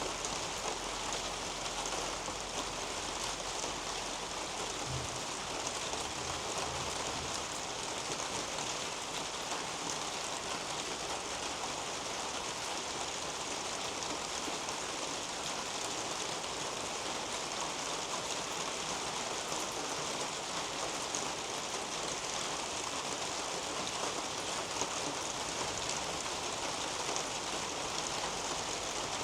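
Steady rain falling on garden leaves and a roof overhead: an even, unbroken hiss with no distinct drops or events standing out.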